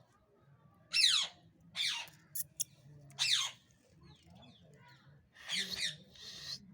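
A pet parrot screeching: a series of harsh, loud calls, each sweeping down in pitch, with two short clicks about two and a half seconds in and rougher, noisier squawks near the end.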